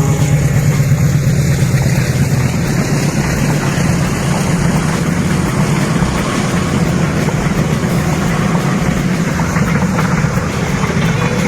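Miniature diesel locomotive running with a loud, steady engine rumble.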